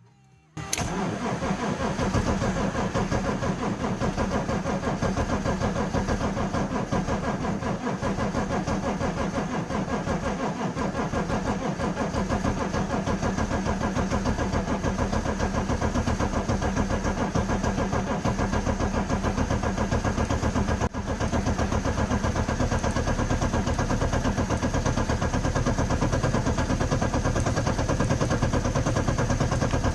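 BMW diesel engine cold-starting in deep frost: it comes in suddenly about half a second in and runs on at a steady, fast-clattering idle. There is a short drop in level about two-thirds of the way through.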